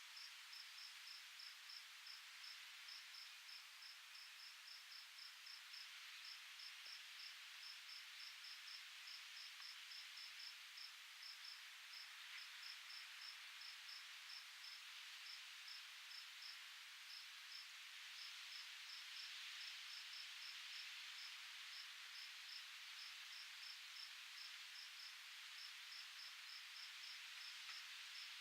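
Soft, steady wind hiss that swells gently, with a faint high-pitched chirp repeating evenly about three times a second over it.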